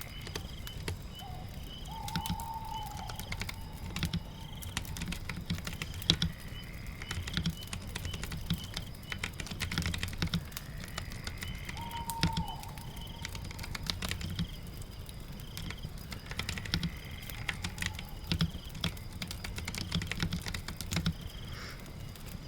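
Typing on a computer keyboard: irregular runs of key clicks over a steady rain hiss, with faint short high-pitched chirping tones coming and going.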